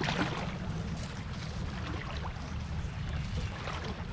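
Small creek's water running, with a low rumble of wind on the microphone.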